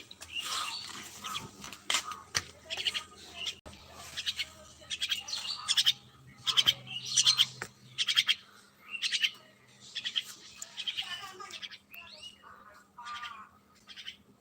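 Mynas calling: a long run of short, rapid calls one after another, with brief pauses between groups.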